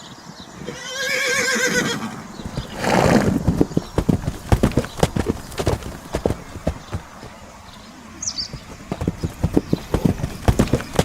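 A horse whinnies once, a quivering call lasting just over a second, then gives a loud breathy snort. Its hooves then clip-clop in a steady run of hoofbeats.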